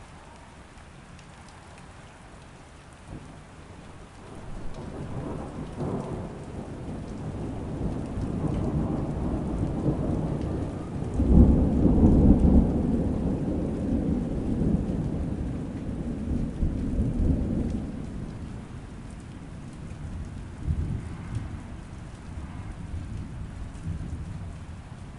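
Steady rain with a long roll of thunder that builds from about four seconds in. The thunder is loudest about halfway through, then rumbles away, with a few weaker rumbles near the end.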